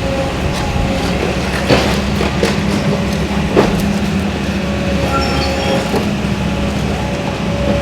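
A steady, loud mechanical rumble with a low hum, shrill metallic squealing tones that come and go, and a couple of sharp metal knocks about two and three and a half seconds in.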